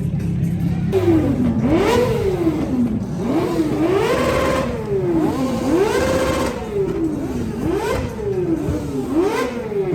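A car engine revved again and again, about eight times in a row, each rev climbing quickly and then falling away, starting about a second in.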